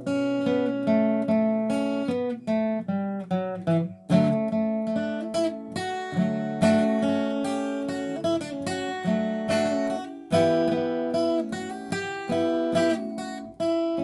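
Acoustic guitar playing a song's melody as single picked notes over plucked chords, with a new phrase starting about four seconds in and again about ten seconds in.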